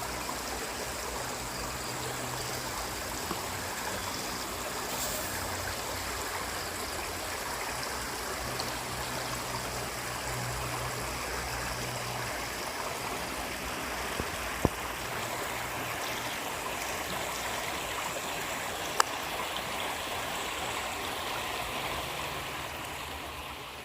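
Small waterfall's water running and splashing steadily, a continuous rush of noise, with two brief sharp clicks partway through; it fades down near the end.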